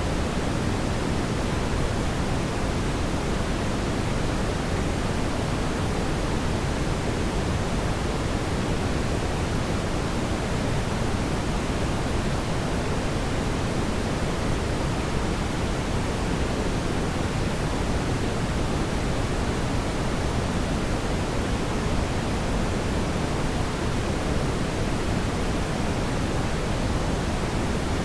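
Steady, even rushing noise from a fireplace fire, heaviest in the low end, with no distinct crackles or pops.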